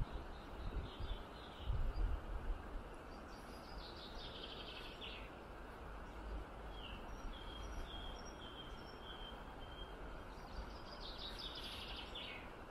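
Small songbirds singing: two fast, descending trills and a run of short high notes in between. Under them is a steady background hiss of outdoor noise, with a few low bumps in the first couple of seconds.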